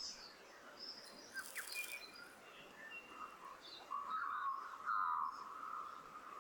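Australian magpie calling in warbling, gurgling notes, loudest and most sustained about four seconds in, among shorter higher chirps.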